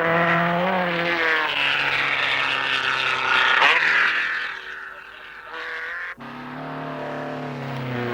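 Rally car engines running hard at high revs, with a pitch sweep as a car goes by about three and a half seconds in. After an abrupt cut past the six-second mark, another car's engine holds steady high revs.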